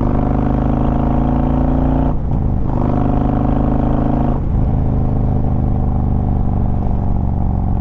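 Harley-Davidson Road Glide Ultra's Twin Cam 103 V-twin pulling hard under throttle, with the ride-mode switch set to its sharpest-response 'anarchy' mode. The note breaks off briefly twice, about two seconds and four and a half seconds in.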